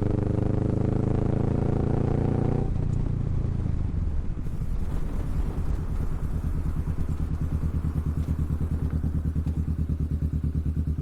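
Kawasaki Vulcan S parallel-twin engine through an aftermarket Hoonk twin exhaust. It runs steadily at cruise for a few seconds, then the revs drop off and it settles into a lumpy, evenly pulsing idle.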